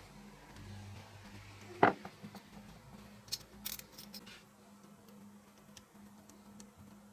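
Small parts being handled on a workbench: one sharp click or knock about two seconds in, then a quick run of lighter clicks, over a faint steady hum.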